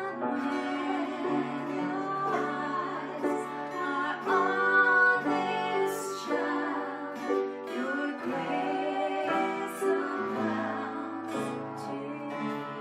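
Worship chorus being sung, with a woman's voice over guitar accompaniment.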